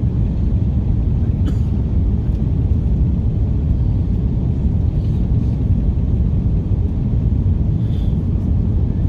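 Steady low rumble of an Airbus A330-343 in motion, heard from inside the passenger cabin: its Rolls-Royce Trent 700 engines and airflow, with a few faint ticks.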